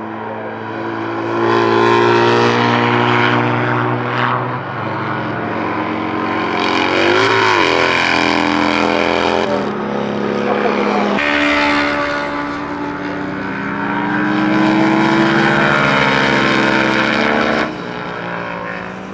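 Classic racing motorcycles at high revs passing at speed, several pass-bys one after another, each swelling and then fading as the engine pitch shifts.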